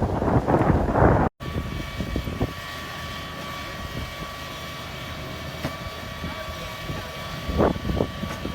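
Wind buffeting the microphone for about a second. Then, after a cut, a steady mechanical hum with a constant whine, with a few brief sounds near the end.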